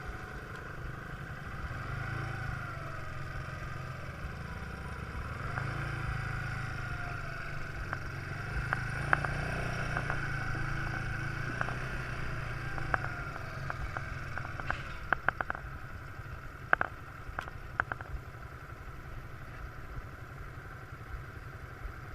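Quad bike engine running, its pitch rising and falling as it is ridden, with a run of sharp clatters and knocks in the second half.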